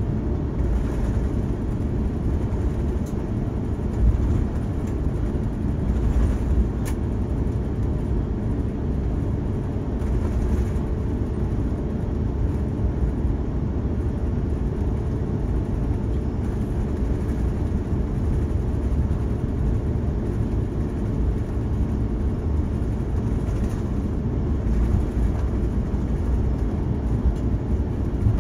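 Steady low rumble of an Airbus A350-900 airliner cabin as the aircraft taxis on the ground.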